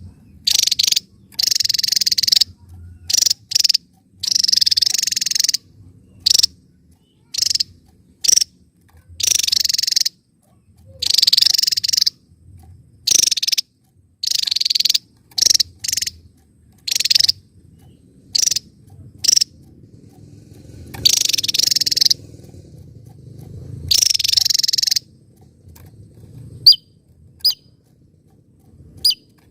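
Javan tesia calling: loud, buzzy high-pitched rattling bursts, each up to about a second long, repeated with short gaps, giving way to a few short sharp chips near the end.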